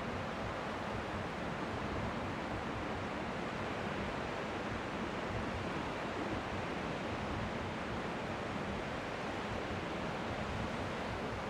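Strong sea wind with faint waves lapping on the shore, blending into a steady, even rush of noise.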